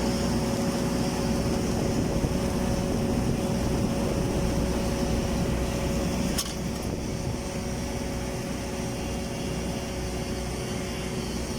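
Steady machinery hum with two steady tones, like an engine or fan running. About halfway through there is a sharp click, and the hum drops a little in level.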